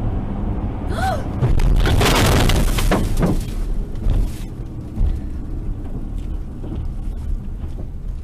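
Car collision recorded by a dashcam: a short squeal about a second in, then a loud crash with crunching and breaking debris lasting about two seconds, followed by scattered clicks and knocks, over steady low road rumble.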